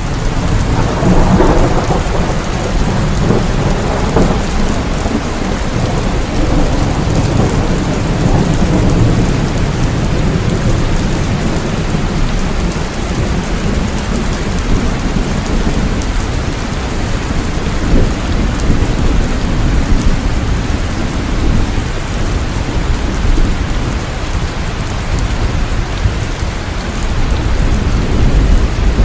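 Steady heavy rain falling, with deep rolling thunder rumbling underneath that swells about a second in and again near the end.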